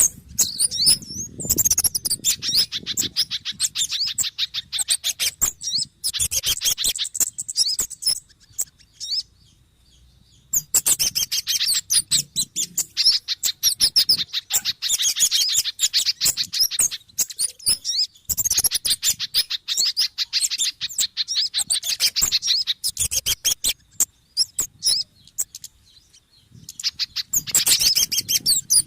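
Bird-lure recording of agitated, rapid high-pitched chattering calls mixing kemade, sogon and pijantung (spiderhunter) birds. The calls come in long dense runs, falling quiet for a couple of seconds about a third of the way in and again near the end.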